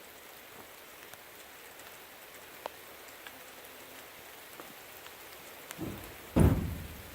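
Steady rain falling, with scattered drops ticking on hard surfaces. About six seconds in comes a brief low rumbling thump, louder than the rain.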